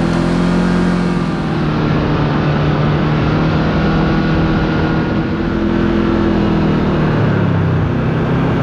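Kawasaki KRX 4 side-by-side's engine running steadily under way, heard on board over tyre and wind noise. About seven seconds in, the engine note drops lower.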